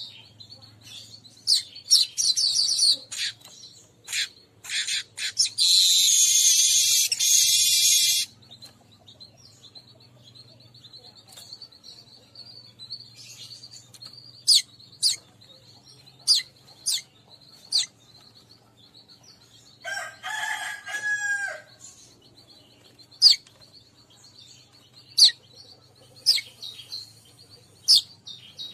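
Weaverbird calls: repeated sharp chirps, with a loud, dense buzzing chatter lasting about two and a half seconds a few seconds in. About two-thirds of the way through comes a lower, drawn-out call of about a second and a half.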